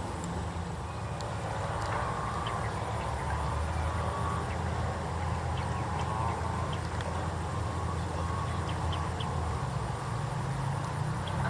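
Birds calling: scattered short high chirps over a steady low rumble.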